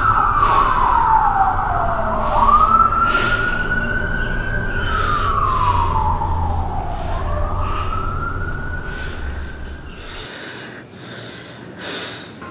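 Emergency-vehicle siren on a wail cycle, its pitch slowly rising and falling about every five seconds, over a low rumble. The siren and rumble fade out about ten seconds in.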